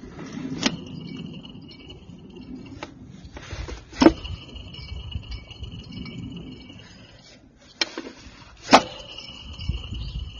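Subaru Vivio air-conditioning compressor making an abnormal jingling rattle ('shara-shara') over a low engine rumble. Sharp clicks come under a second in, about four seconds in and near nine seconds, each followed by a steady high whine that stops a few seconds later.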